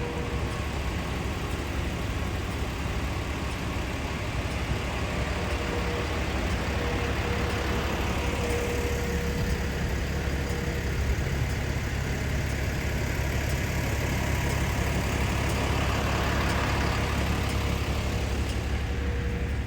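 Steady low rumble of an idling heavy vehicle's engine on a city street, with a constant hum. A wider hiss swells up twice, in the middle and again near the end.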